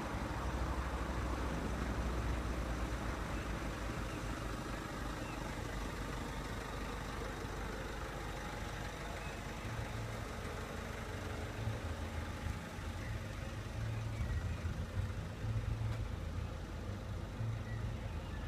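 Car engine running, a steady low rumble under a soft hiss of noise.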